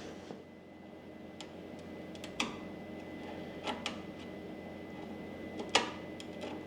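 Sharp cracks and ticks as a chisel breaks out the super-glued badge area and old ebony splice of a snooker cue: about four sharp cracks, the loudest near the end. A low steady hum runs underneath.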